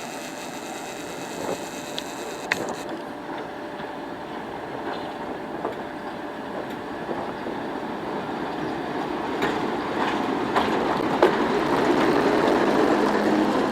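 Class 08 diesel shunter running along the track, growing steadily louder as it comes closer, with scattered sharp knocks from the wheels and rail.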